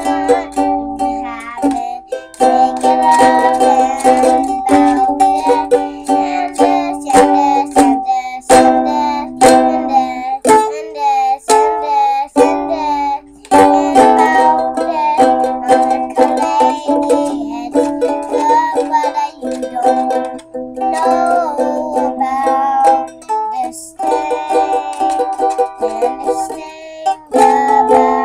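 Ukulele strummed in a run of repeated chords, with a few short breaks in the strumming.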